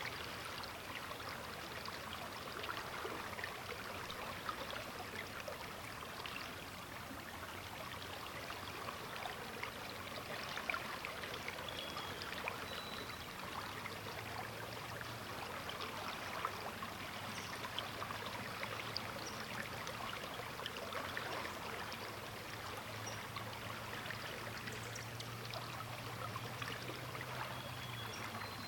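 The Sturgeon River flowing: a steady rush of moving water, full of small splashes and burbles. A faint low hum joins about halfway through.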